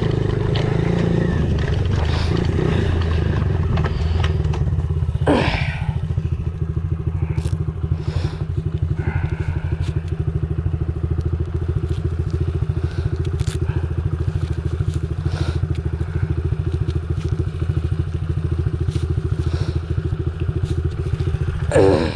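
Honda CRF50 pit bike's small single-cylinder four-stroke engine idling steadily, not revved. A brief clatter cuts in about five seconds in and again near the end.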